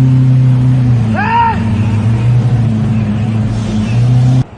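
Lamborghini V12 engine held at high revs, a loud, steady drone that cuts off abruptly near the end. About a second in, a person's short rising-and-falling shout rides over it.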